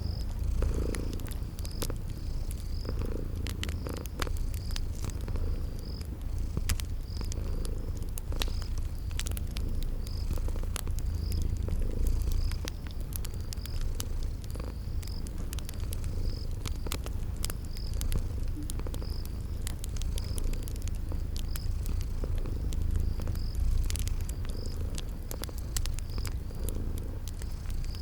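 Cat purring steadily with a low rumble that swells and eases with each breath, over scattered crackles and pops of a wood fire. A cricket chirps about once a second throughout.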